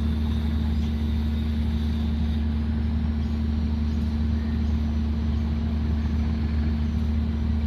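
Diesel locomotive engine idling, a steady low hum that holds at an even level.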